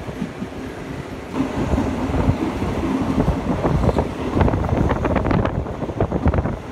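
Passenger train rolling along the track, heard from an open carriage window: a steady rumble of wheels and carriage with wind buffeting the microphone. It grows louder about a second and a half in, and from about four seconds in sharp clatter and gusts come thick and fast.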